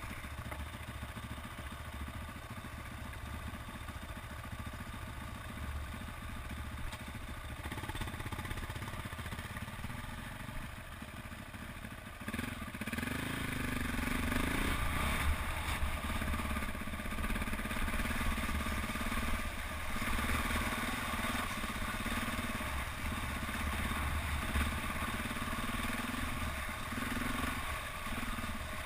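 KTM 400 EXC trail bike's single-cylinder four-stroke engine running under way, quieter at first, then opened up and louder from about twelve seconds in.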